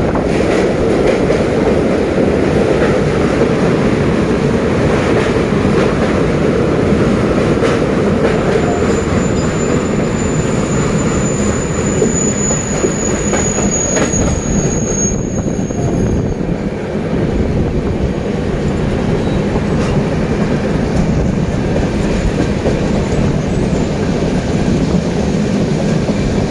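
Train wheels running on rails at speed, a steady rumble and rattle, with a thin high squeal from about nine to sixteen seconds in.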